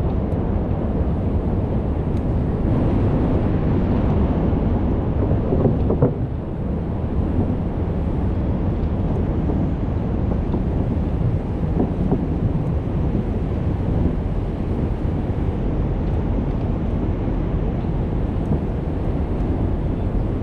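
Steady low rumble of street and wind noise picked up while cycling through city traffic, with a brief louder bump about six seconds in.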